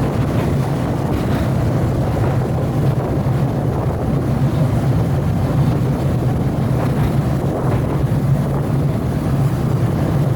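Open-air sightseeing rail car running steadily along the track: a steady low engine drone under rumbling wheel noise, with wind buffeting the microphone.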